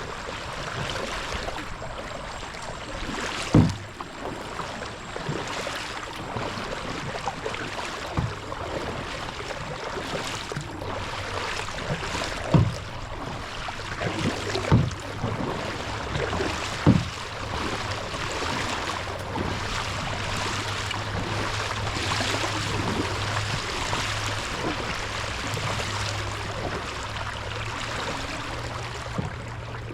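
Kayak paddling on calm water: a steady splash and trickle of water from the paddle blades, with about five sharp knocks spread through the first half. A low steady hum comes in about a third of the way through.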